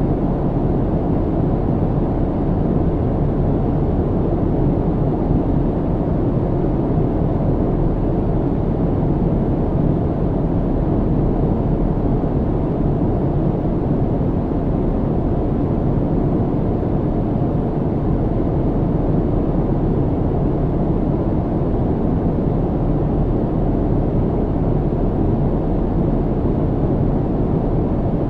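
Airliner cabin noise in flight: a steady, deep rushing drone of engines and airflow that does not change.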